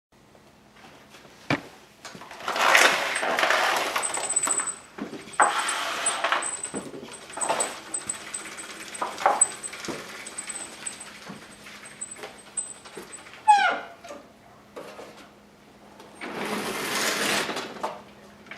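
A dog whining in short, falling cries, among bursts of rustling and shuffling noise, over a faint steady hum.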